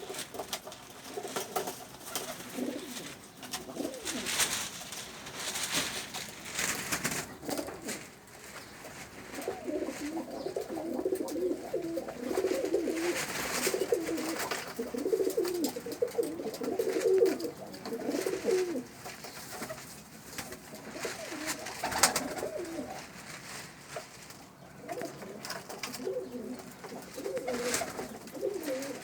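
Domestic pigeons cooing in a small loft, several birds overlapping in repeated low, throaty coos, with occasional sharp knocks or flutters.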